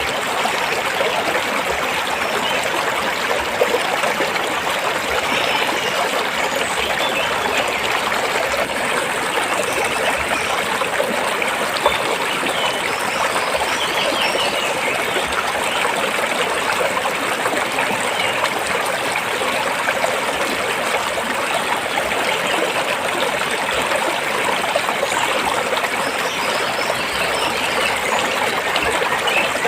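A rocky stream of water flowing steadily over and between rocks, an even rushing and trickling at a constant level.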